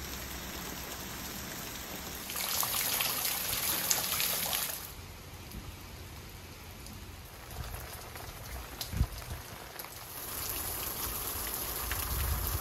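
Heavy rain falling steadily, louder for a couple of seconds near the start and again toward the end, with a brief low thump about nine seconds in.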